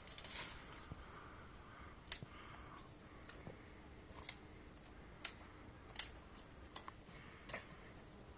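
A handful of short, sharp clicks or snips at irregular intervals, about five over several seconds, against a quiet background.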